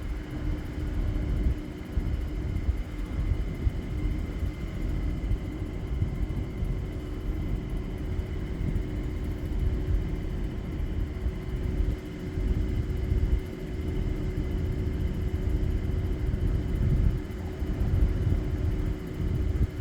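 LG inverter air conditioner's compressor giving a steady buzzing hum over a low, uneven rumble. The owner takes it for the compressor trying to start and quitting, from either a bad compressor or a bad control board.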